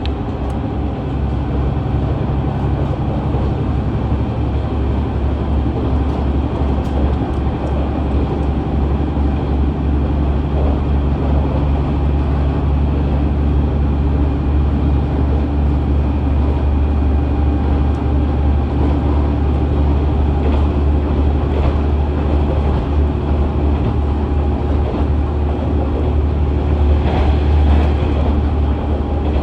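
KiHa 110-series diesel railcar (KiHa 111) running, heard from on board: its DMF14HZ diesel engine and running gear make a steady low drone with a steady higher whine. One low hum drops out about halfway through.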